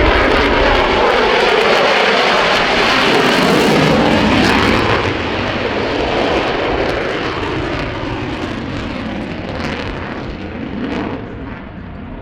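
F-35A Lightning II fighter jet's single afterburning turbofan flying past: loud jet noise drops in pitch around three to four seconds in, then fades steadily as the jet moves away.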